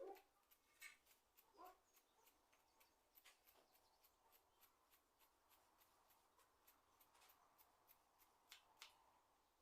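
Near silence with faint scattered clicks and light ticking, and two short faint whines in the first two seconds.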